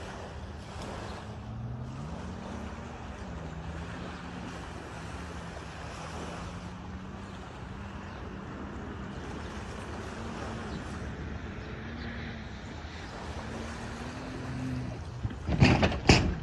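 An engine running under steady wind-like noise, its pitch climbing about two seconds in and then wavering up and down. Near the end come a few loud, sudden bangs.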